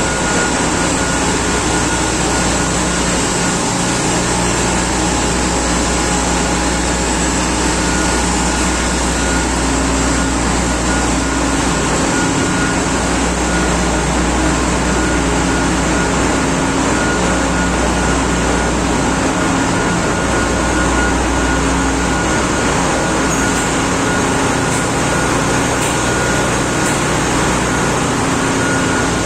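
Machinery in a large ship's engine room running: a loud, steady mechanical din with a low hum and a thin, steady tone riding on top.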